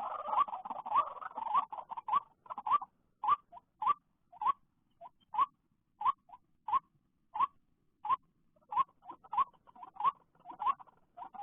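White-breasted waterhen calling: a run of short, rising notes repeated over and over, closely packed at first, slowing to about one or two a second, then quickening again near the end.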